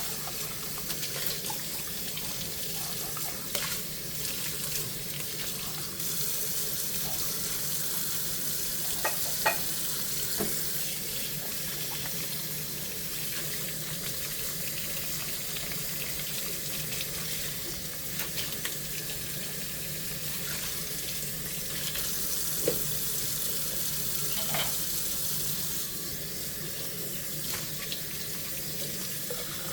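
Tap water running steadily into a kitchen sink while dishes are washed by hand, with a few sharp clinks of dishes knocking together. The flow gets a little louder about six seconds in and eases near the end.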